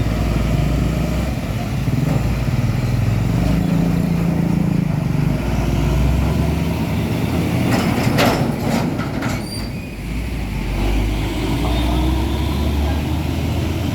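Heavy diesel truck engines running as trucks pass on a road, their pitch and loudness shifting. A little past the middle comes a short cluster of sharp clicks and hiss.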